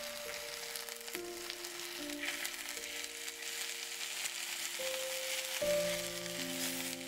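Chicken drumsticks sizzling as they sear in a clay pot, a steady frying hiss as they are turned with chopsticks. Light background music with held notes plays over it.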